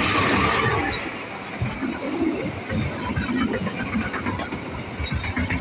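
Diesel-hauled passenger train passing close by. It is loudest in the first second as the locomotive goes past, then the coaches run by in a steady rush with irregular knocks from the wheels on the rails.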